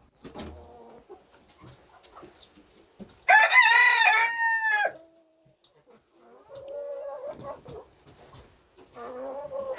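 A rooster crows once, loudly, about three seconds in: a call of about a second and a half that drops in pitch at the end. Quieter chicken calls and clucks follow.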